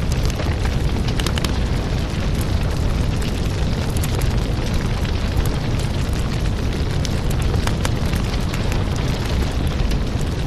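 Firewood burning: a steady low rumble of flames with frequent sharp crackles and pops of the burning wood.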